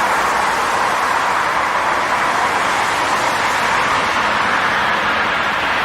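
Steady rushing noise of an aircraft, even and unchanging, with no distinct engine tones.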